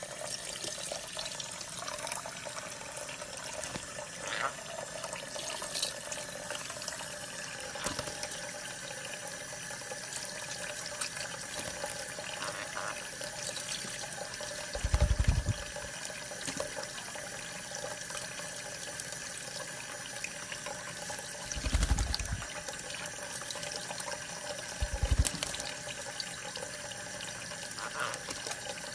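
Steady running water, like a tap running, with three short low thumps partway through.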